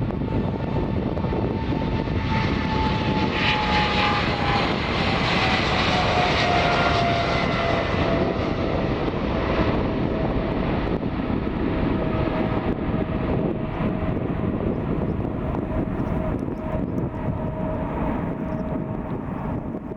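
Boeing 777's GE90 turbofan engines roaring as the jet passes by, with a whining tone that slides down in pitch as it goes past. The roar swells to a peak partway through and then fades slowly.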